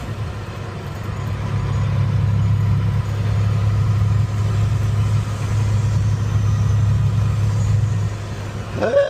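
Pickup truck engine and road noise heard from inside the cab while driving, a steady low drone that grows louder about two seconds in.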